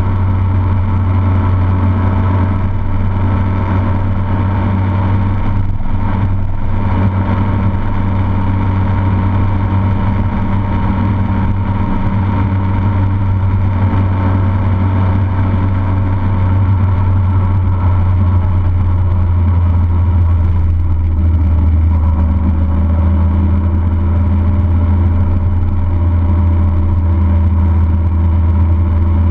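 A motor vehicle's engine running with a steady low drone at an even speed, with no sharp revving.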